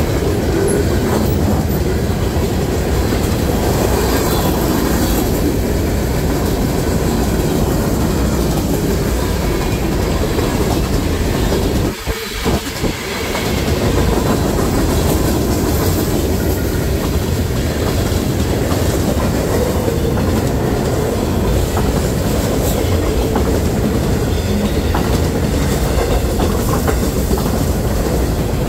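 Freight train cars rolling past at track side with a steady, loud rumble. The sound drops briefly about twelve seconds in, then resumes.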